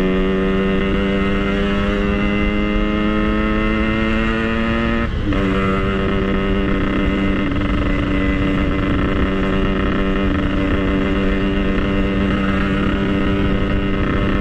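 Yamaha RX-King's two-stroke single-cylinder engine running at high revs under way, its pitch climbing slowly, dropping suddenly about five seconds in, then holding steady.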